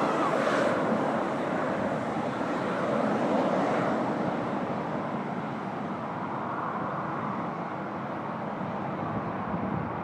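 Aircraft engine noise at an airport, a steady rush that slowly fades away.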